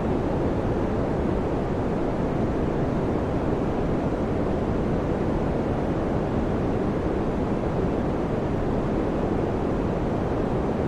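Electric fan running: a steady, even rushing noise that sits mostly low and mid in pitch, with no hum tone or rhythm.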